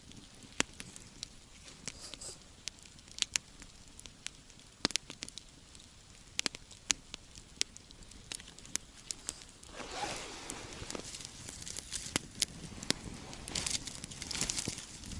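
Wood campfire crackling, with sharp irregular pops. From about ten seconds in, a louder rustling noise joins.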